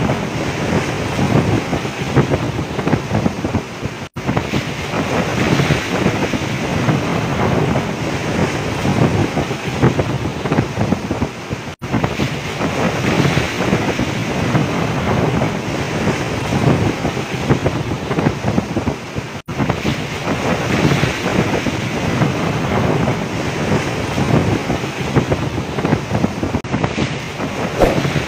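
Storm wind blasting the microphone over heavy seas washing against a fishing boat, a dense, steady roar. It cuts out to silence for an instant three times.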